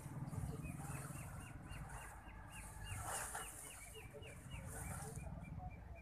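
A bird calling a fast series of short, high, hooked notes, about four to five a second, starting about a second in and slowing and fading near the end, over a low rumbling noise.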